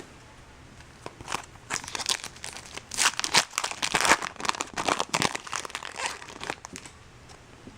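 Wrapper of a baseball card pack crinkling and tearing as it is opened by hand: a run of irregular crackles lasting about six seconds.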